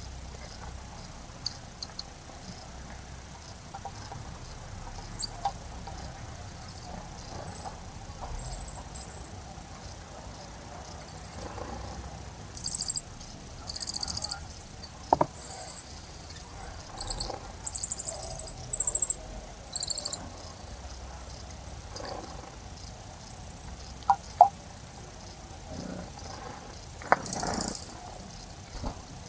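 Wild birds chirping in short, high-pitched bursts, a few at a time and most of them in the second half, over a low steady background, with a few sharp clicks.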